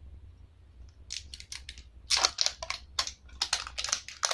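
Cosmetic packaging being handled and unwrapped: a run of crinkling rustles and small clicks, growing louder about two seconds in.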